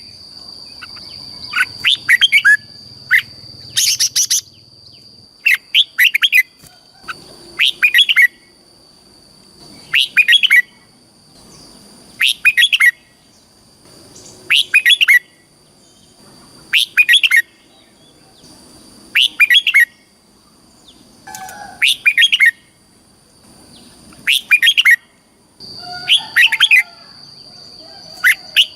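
Red-whiskered bulbul singing its short, fluty song phrase over and over, about once every two seconds, with a steady high tone underneath. This is the kind of repeated song played to caged bulbuls to teach young birds or to stir them to sing.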